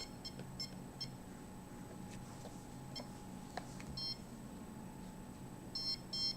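Handheld RF (radio-frequency) detector beeping in short, high chirps as it picks up signals. A few scattered beeps come early, single ones come in the middle, and a quicker run of beeps comes near the end.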